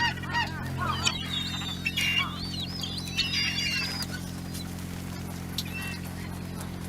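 Birds calling: a quick run of short, arching calls, then higher squealing calls that fade out about four seconds in. A steady low hum runs underneath.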